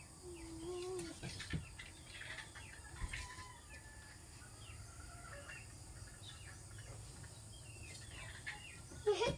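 Birds chirping with many short, scattered calls over a low steady hum, with a brief louder sound near the end.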